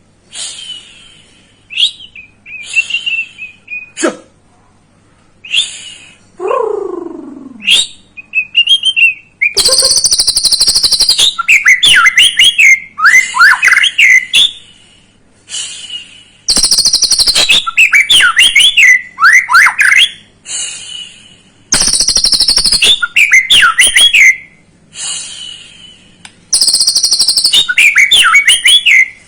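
Young white-rumped shama (murai batu) singing: loud bouts of a few seconds of fast chattering rattles mixed with sweeping whistled notes, after scattered softer calls in the first few seconds. This is the kind of excited song played as a bait song to spur other shamas into singing.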